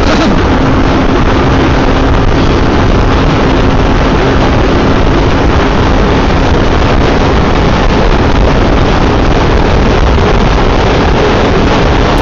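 Steady wind rush over the microphone of a motorcycle riding at highway speed, with the single-cylinder engine of a Yamaha FZ V3 humming steadily underneath.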